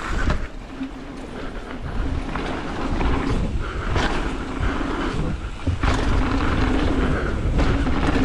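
Carbon Ibis Ripmo mountain bike ridden fast down a rough trail: a steady rumble of tyres and wind on the mounted microphone, with sharp knocks and clatter from the bike hitting bumps, about three of them standing out.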